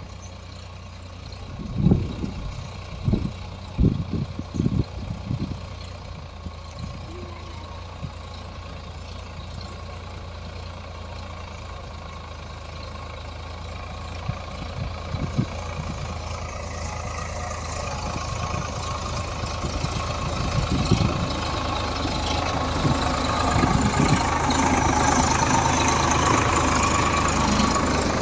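Tractor engine running steadily as it works a cotton field. A few low thumps come in the first seconds, and the engine grows louder over the last third as the tractor comes closer.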